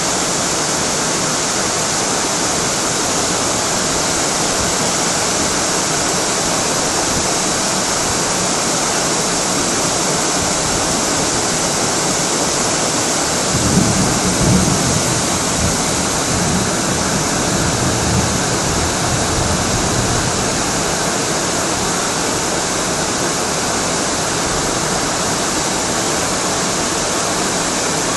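Tropical storm rain and wind, a dense, steady rush of noise. From about 13 to 20 seconds in, stronger gusts add a low rumble.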